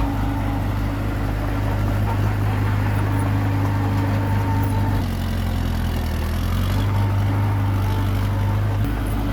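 Komatsu D21P bulldozer's diesel engine running steadily, its note shifting briefly about halfway through and then settling back.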